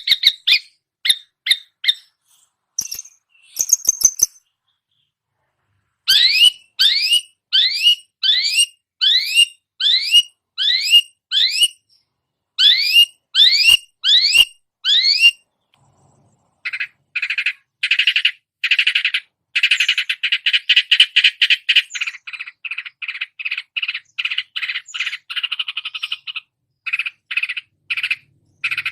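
Long-tailed shrike (cendet) singing mimicked songbird phrases: a series of sharp rising whistled notes, about two a second, then, after a short pause, a fast harsh chattering rattle.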